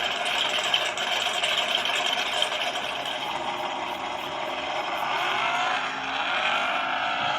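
Car engine running hard, with a rising pitch as it revs up about two-thirds of the way through.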